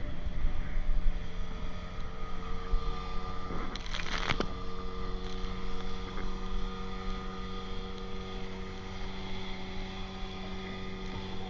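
Motorboat engine running at a steady pitch over a rough low rumble, with a brief burst of noise about four seconds in.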